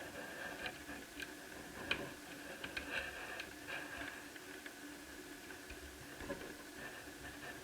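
Light, scattered clicks and taps of small laptop parts and tools being handled, over a faint steady hum.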